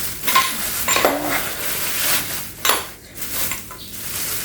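Plastic packaging on new electric-fan parts being handled and pulled off: a steady rustling crackle broken by several sharp clicks and knocks of hard plastic.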